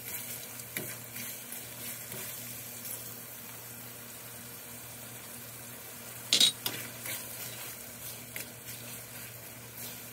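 Ackee and saltfish sizzling gently in a stainless steel pan while a fork stirs it, scraping and tapping on the pan, with one sharper knock about six seconds in.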